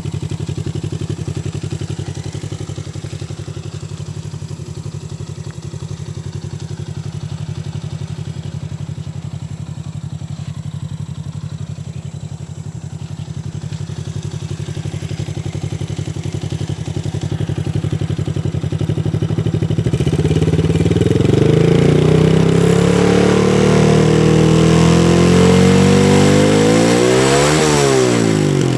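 Engine running through a shortened exhaust: a steady idle for about twenty seconds, then revved repeatedly, the pitch climbing and falling, with a sharp rev to its highest just before the end before dropping back.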